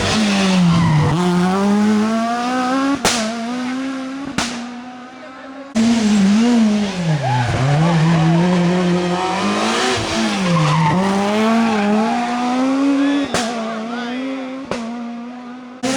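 Rally car engines working through a tight hairpin. The engine note drops as a car brakes and turns in, then climbs hard as it accelerates out, over tyre noise from sliding on the asphalt. The sound changes abruptly several times as one car's pass gives way to the next.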